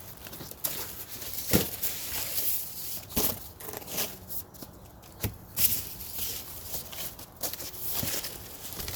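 Irregular knocks, clicks and rustling of things being handled and set down, with several sharper knocks scattered through, about one every second or so; no engine or brake noise.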